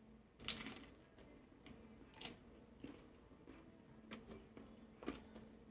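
Biting into a chicken taco and chewing it close to the microphone: a louder bite about half a second in, then faint, irregular chewing clicks roughly every half second.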